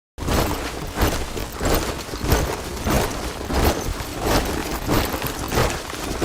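Boots of a column of soldiers marching in step, a heavy crunching stamp about every two-thirds of a second. The marching begins abruptly just after the start.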